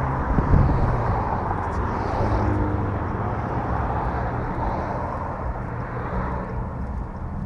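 Car running, a steady low rumble of engine and road noise, with a brief thump about half a second in.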